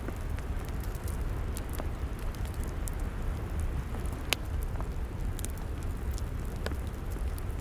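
Log fire crackling: scattered sharp pops and snaps, one louder pop about four seconds in, over a steady low rumble of the burning fire.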